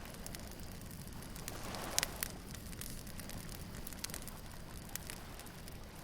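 Wood bonfire crackling with scattered sharp pops, the loudest about two seconds in, over a steady low rush of surf.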